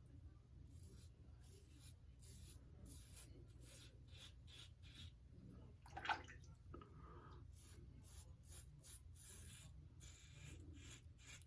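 Faint scratchy strokes of a Wolfman WR2 double-edge safety razor with a new Nacet blade cutting through lathered stubble, a quick run of short strokes with brief pauses. There is a louder click about six seconds in.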